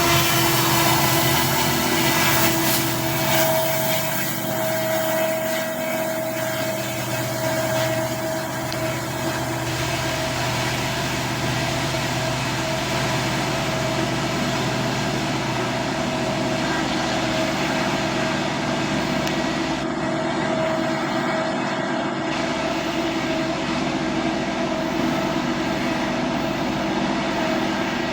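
Diesel freight locomotive engines running with a steady drone and several held tones.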